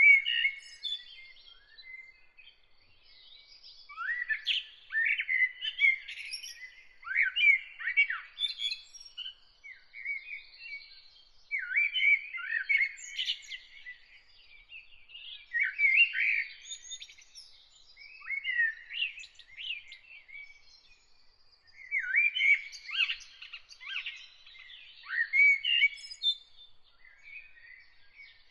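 Songbirds singing in short chirping and warbling phrases, a second or two each, with brief pauses between them, over a faint steady high tone.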